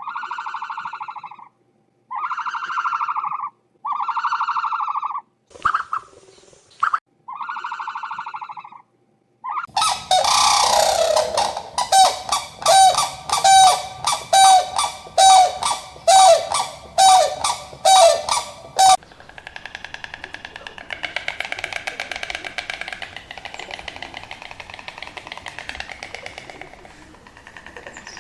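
Animal calls. First a few separate honking calls, each about a second and a half long. Then a quick run of about a dozen repeated calls. Then a denser, rougher stretch of calling to the end.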